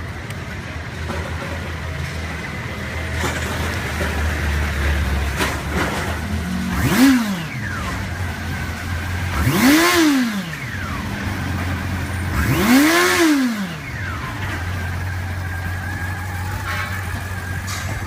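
2011 Honda CB400's inline-four engine idling steadily and revved three times, about three seconds apart. Each throttle blip climbs quickly in pitch and falls back to idle.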